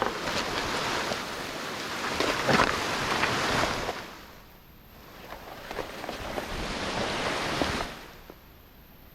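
Snow hissing under a freerider's turns, in two long swells with a lull between, with wind rushing on the microphone.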